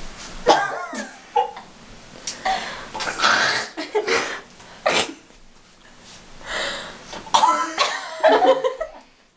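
Bursts of laughter and coughing from a few people, in short fits with gaps between and no clear words.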